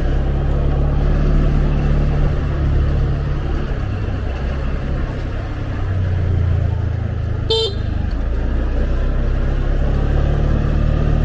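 Motorbike engine running steadily under road and wind noise, its pitch shifting slightly with speed. A short vehicle horn beep sounds about seven and a half seconds in.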